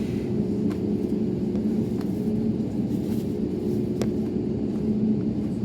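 Airbus A321neo jet engines running with a steady drone heard inside the cabin, with a few faint clicks.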